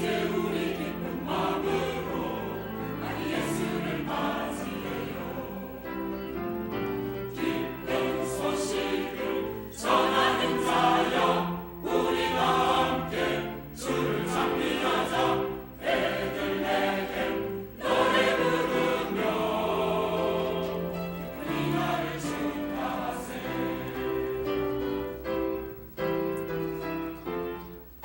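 Church choir singing a hymn anthem in Korean, with an accompaniment under the voices, phrases rising and falling in loudness with brief breaths between them.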